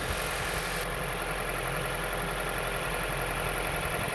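2008 Dodge Avenger engine idling steadily, running after fresh ignition coil packs and spark plugs were fitted to cure a misfire.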